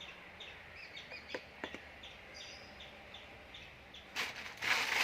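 A bird chirping over and over, short falling chirps about three a second, with two or three light clicks about a second and a half in. Near the end a loud rustling sets in as the food bag is handled.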